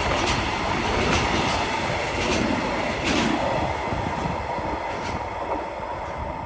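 A train running past on the track, its wheels clacking over rail joints every second or so, with a faint steady whine. The sound slowly fades as it moves away.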